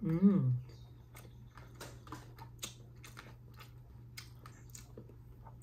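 Someone eating close to the microphone: a short voiced sound at the start, then irregular small mouth clicks and smacks of chewing over a steady low hum.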